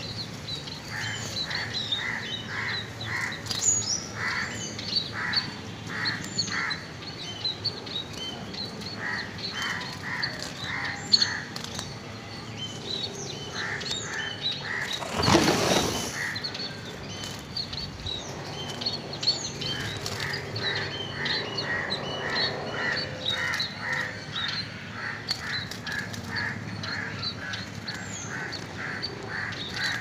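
Birds calling: runs of evenly repeated calls, about three or four a second, over many short high chirps. A brief rush of noise comes about halfway through.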